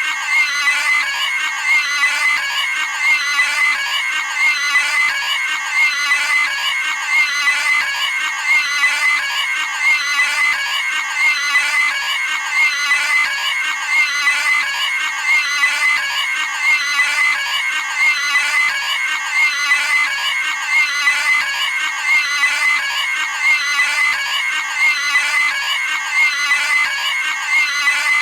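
Cartoon pig squealing, a high-pitched scream sound effect repeated over and over in an even loop.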